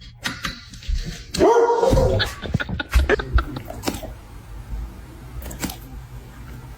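A dog giving one loud, drawn-out yelp about a second and a half in, followed by scattered short knocks and clicks.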